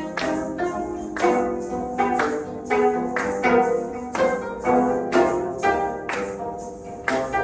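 Instrumental ensemble music: melodic pitched notes over a regular percussive beat, about two sharp strokes a second.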